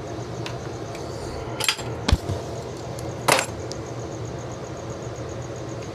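A few sharp metallic clinks and knocks as hand tools or metal parts are handled, three main strikes in the first half, over a steady machine hum.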